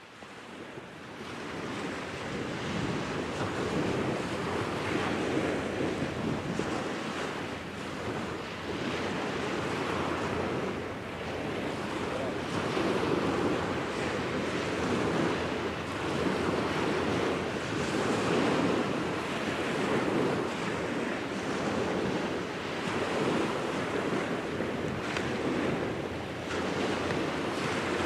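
Wind rushing over the microphone, mixed with water washing on the shore, swelling and easing every few seconds.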